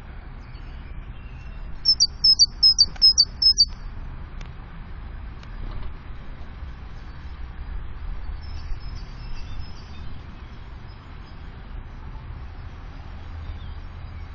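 Bird song: a quick run of about seven loud, high, clipped notes in under two seconds near the start, then fainter high twittering a few seconds later, over a low steady background rumble.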